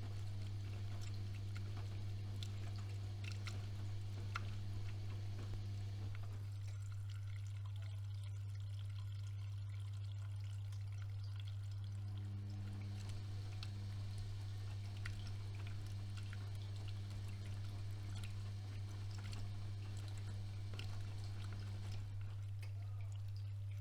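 AEG Öko-Lavamat 76730 washing machine tumbling its wash, with water splashing and dripping inside the drum. The drum motor runs, stops about six seconds in, starts again about six seconds later, and stops again near the end, over a steady low hum.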